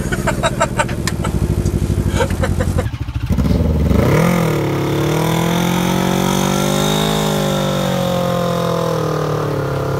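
Two men laughing inside the car for about three seconds. Then a Smart Fortwo's engine running hard on an ice track, its pitch rising, dipping and rising again as it revs.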